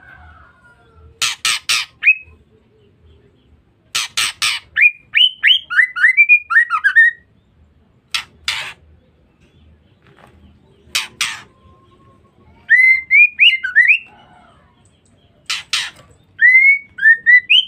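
Female white-rumped shama calling: short bursts of harsh, rasping notes, a few at a time, alternating with runs of quick rising whistled notes.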